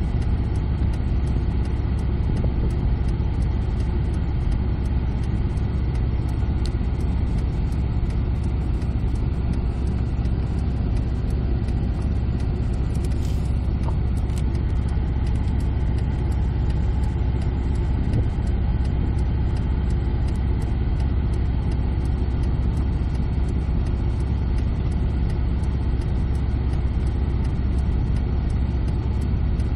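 Car engine running steadily at low idle speed as the car creeps along at walking pace, heard from inside the cabin: a constant, deep sound with no changes in pitch.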